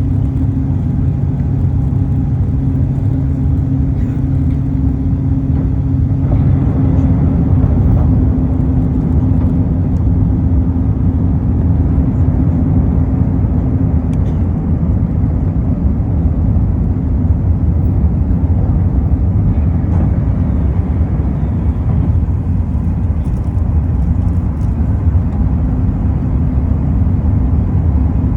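Steady, loud low engine rumble with a low hum that fades about halfway through.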